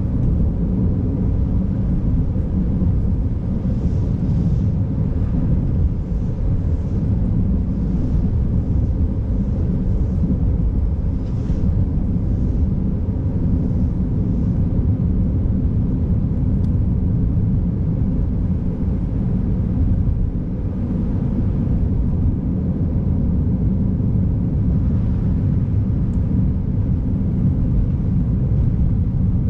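Car driving on a snow-covered road: a steady low rumble of tyres and engine, with a few faint, brief hisses.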